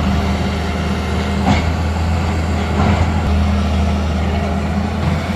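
Large engine of heavy construction machinery running steadily with a low hum, with a couple of short knocks about one and a half and three seconds in.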